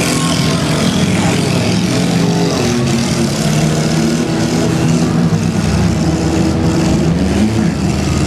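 Several demolition derby cars' engines running and revving together, their pitches rising and falling.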